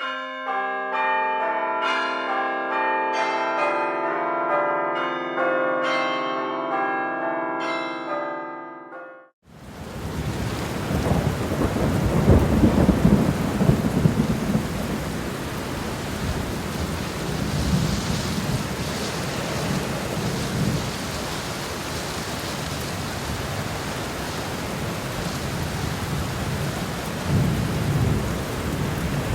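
Bell-like chimes, many overlapping ringing tones, cut off abruptly after about nine seconds. Then a heavy downpour of torrential rain, with low rumbling swells soon after it starts and again near the end.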